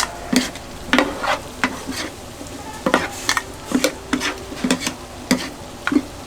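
Metal spatulas clanking and scraping against a hot pan while stir-frying chicken gizzards, in irregular strokes about two or three a second, over a steady sizzle.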